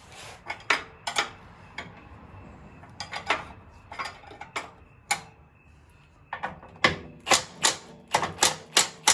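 Sharp metallic clicks and clinks of hand tools working on a bolt. They come sparsely at first, then faster and louder over the last few seconds.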